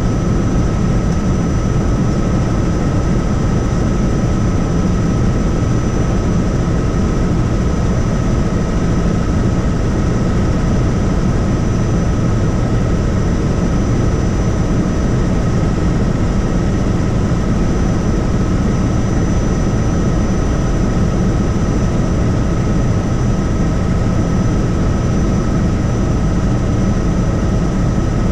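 Helicopter in flight: a steady rotor and engine drone with a constant high whine over it.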